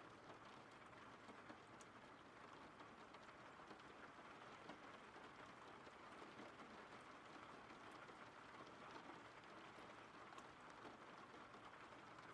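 Faint, steady rain: an even hiss with scattered light ticks of drops.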